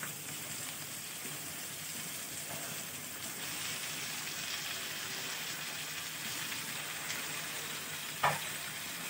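Chopped vegetables and raw chicken pieces frying in hot oil in a kadhai: a steady sizzling hiss. A brief louder sound comes near the end.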